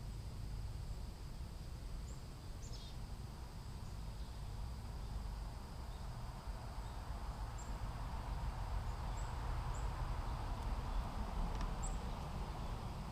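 Outdoor ambience: a steady low rumble under a steady high insect drone, with a few short, high bird chirps scattered through. A broad hiss swells in the second half.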